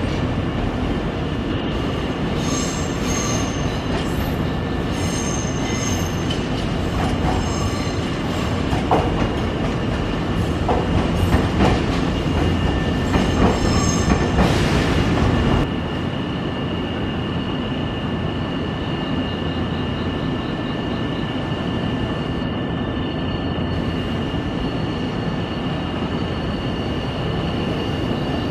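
Nankai electric train moving through Namba station, its wheels squealing repeatedly on curved track and clicking over rail joints over a heavy rumble. The rumble stops abruptly a little past halfway, leaving a steady high tone.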